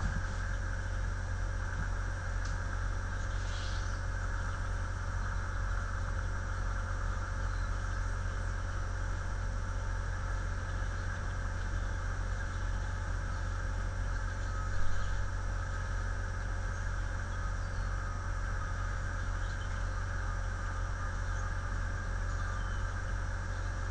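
Steady electrical hum and hiss from an outdoor webcam's microphone, with a few faint high chirps and one brief louder sound about fifteen seconds in.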